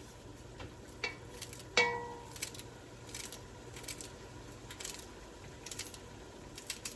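Kitchen utensil and dish clatter: a scatter of light clicks and taps, with one sharper clink that rings on briefly about two seconds in.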